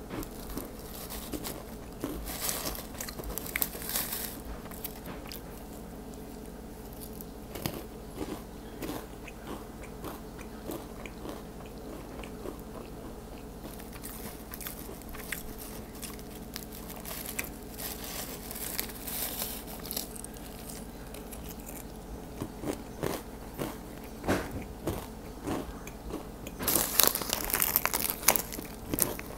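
A person chewing and biting Goldfish crackers in a steady run of crunches. The crunching is loudest a few seconds in and again near the end.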